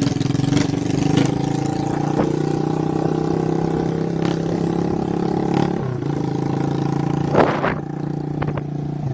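Motorcycle engine running through a bare exhaust pipe with no muffler, held at steady revs and then dropping lower about six seconds in, with several sharp cracks, the loudest near the end.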